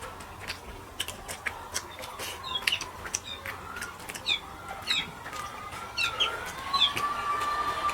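Close eating sounds: wet mouth smacks and clicks from chewing fish curry and rice, with small birds chirping repeatedly in the background.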